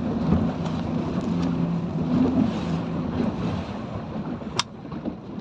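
A small speedboat's engine running slowly, a steady low hum under wind buffeting the microphone and the noise of water. The hum eases about four seconds in, and a single sharp click sounds near the end.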